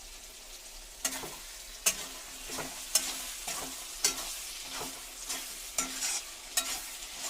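Chicken frying with garlic and ginger in hot oil in a pot, sizzling steadily. A spoon scrapes and knocks against the pot roughly once a second as it is stirred.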